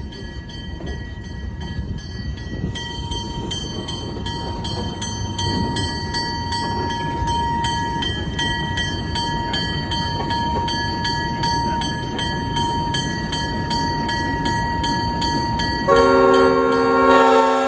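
Train cars rumbling along the rails. From about three seconds in, a locomotive bell rings with regular even strikes. About sixteen seconds in, the locomotive horn sounds loudly as a multi-tone chord.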